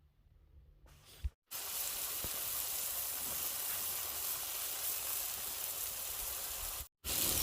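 Fish frying in hot oil, a steady sizzle that starts abruptly about a second and a half in and cuts off just before the end.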